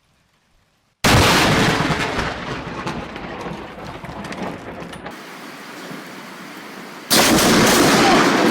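Thunderclap from a nearby lightning strike: a sudden, very loud crack about a second in that rumbles and fades over several seconds. Another sudden loud crack comes near the end.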